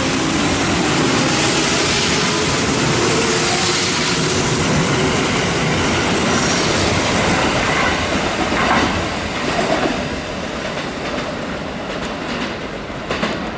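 Kintetsu electric train running past the platform at close range. The steady rumble of its wheels fades after about eight seconds as the last car draws away, with a few sharp clacks around nine seconds in.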